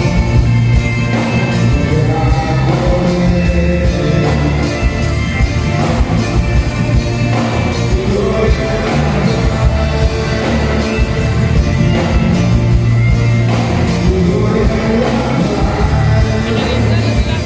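Loud band music with heavy bass and a steady drum beat, and a voice singing over it.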